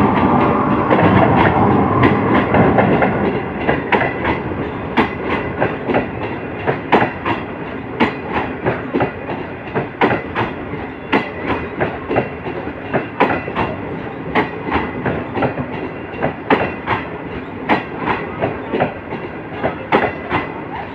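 A train passing at speed. A loud, dense rumble fills the first three seconds or so, then the wheels keep up a steady clickety-clack over the rail joints.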